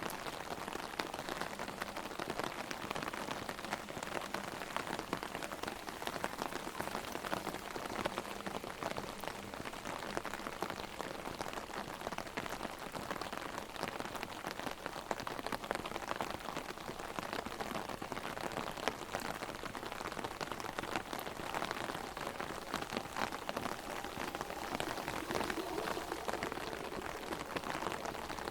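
Heavy rain drumming steadily on an open umbrella overhead, a dense patter of drops.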